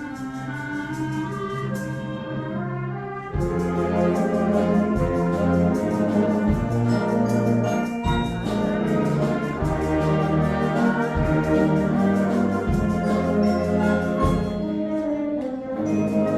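Band music with brass: a quieter passage, then about three seconds in the full band comes in louder with a strong bass line.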